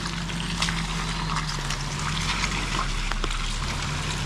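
Motorcycle engine running at low, steady revs over a hiss of rain and wet road, with scattered small ticks. The engine note dips a little about two seconds in, then picks up again.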